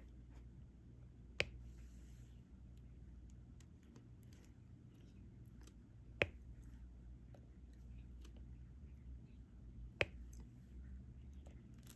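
Diamond-painting stylus clicking as it picks up and presses resin drills onto the canvas. There are three sharp clicks a few seconds apart and faint ticks between them, over a low steady hum.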